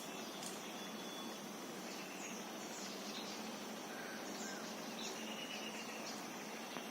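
Natural ambience: a steady, high-pitched insect drone with short bird chirps scattered through it over an even hiss.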